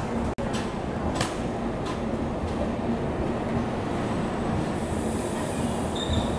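Passenger train coaches rolling slowly into a station: a steady low rumble of wheels on rail, with a few sharp clicks in the first three seconds and a brief high squeal near the end.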